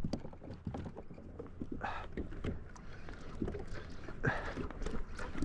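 Scattered light knocks and clicks of fishing gear being handled on a kayak, with two brief louder rustles about two seconds in and again past four seconds.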